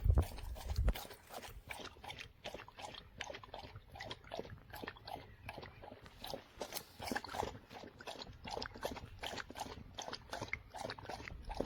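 A dog feeding at a collapsible silicone bowl: a steady run of quick wet mouth clicks, about three or four a second. There is a low thump in the first second.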